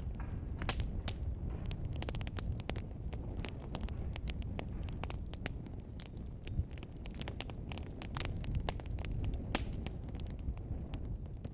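Wood fire burning in a fireplace, crackling with frequent irregular sharp pops over a low, steady rumble of flames.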